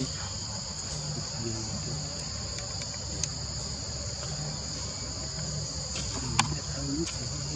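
Insects droning steadily at a high pitch in two even bands, with one sharp click about six and a half seconds in.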